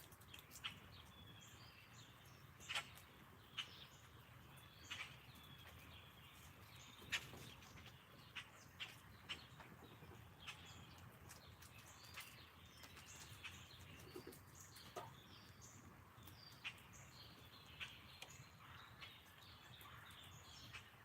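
Faint wild birdsong: scattered short chirps and calls, a few every second or two, over a low steady outdoor background hum.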